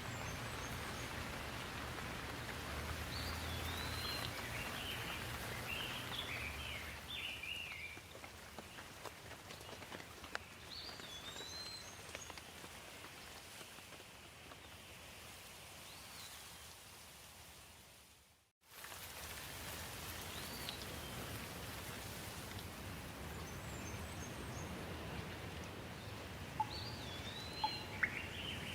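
Steady rain falling, with a few sharp drips and birds chirping now and then over it. About two-thirds of the way in the rain fades to silence for a moment and comes straight back.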